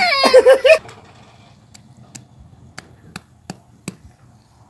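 Loud laughter that cuts off abruptly a little under a second in, followed by a quiet stretch with about six sharp, separate clicks.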